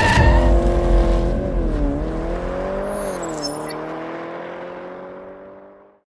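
Motorcycle engine running at speed, its pitch dropping and climbing again a few times as it pulls through the gears, growing steadily fainter as it moves away until it cuts off suddenly near the end.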